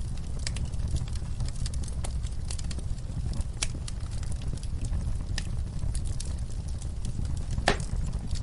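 Wood fire crackling in a fireplace: a steady low rumble of flames with irregular sharp pops and snaps, one louder pop near the end.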